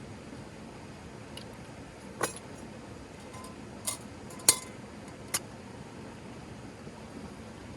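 Tea-making utensils clinking: four sharp clinks of glass or metal, the third and loudest about halfway through, a couple of them leaving a short ring.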